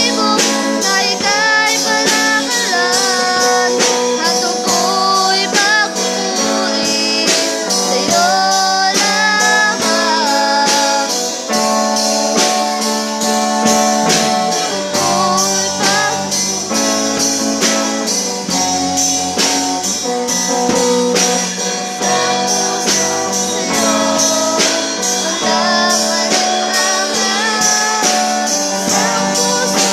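Church band performing a worship song: voices singing over guitar and drums keeping a steady beat.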